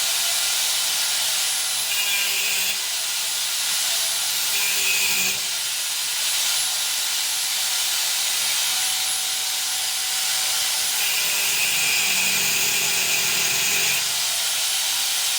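Angle grinder with a cutting disc cutting through steel: a steady loud hiss with a high motor whine that sags each time the disc is pressed into the cut, twice early on and for a longer stretch in the second half.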